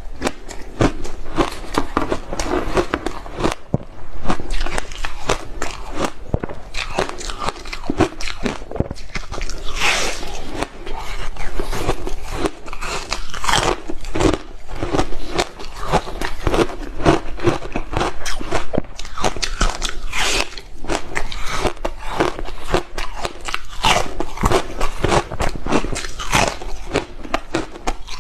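A person biting and chewing hard ice close to the microphone: rapid, dense, irregular crunches without a break.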